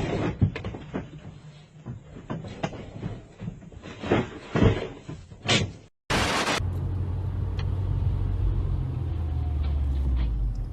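Several scattered knocks and clicks, then after a short break a brief loud burst of noise and a steady low vehicle rumble.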